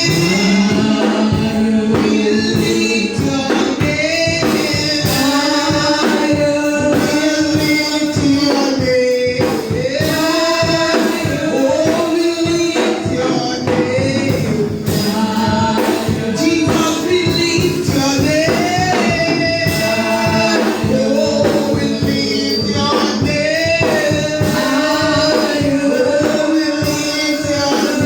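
Live gospel worship music: singing voices over a band with a steady beat and tambourine.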